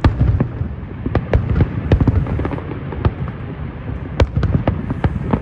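Fireworks going off: an irregular series of sharp bangs and pops, a few a second, over a low rumble, with one louder crack about four seconds in.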